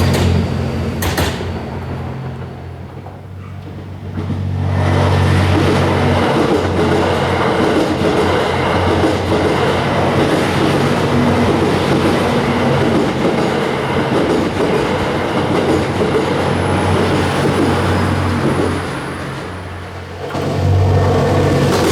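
Series 87 Twilight Express Mizukaze diesel-electric hybrid train passing close by: a steady engine hum with wheels clattering over the rail joints. The sound fades briefly about three seconds in and again near the end, then returns at full level.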